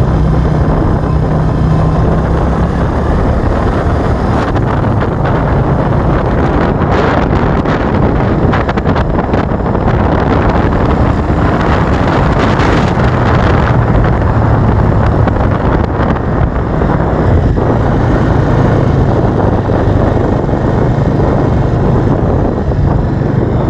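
Suzuki cruiser motorcycle engine running steadily while riding, its low note shifting slightly with the throttle, under heavy wind buffeting on the microphone.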